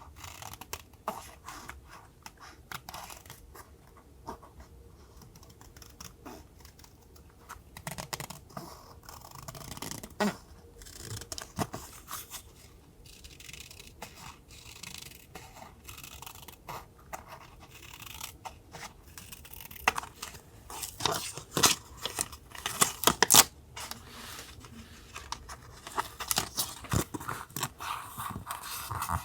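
Paper being handled for a journal collage: a string of small crisp rustles, snips and tears, busiest and loudest about two-thirds of the way through.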